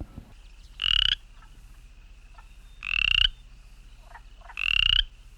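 Cricket chirping: three short chirps about two seconds apart, over a faint steady trill at the same pitch.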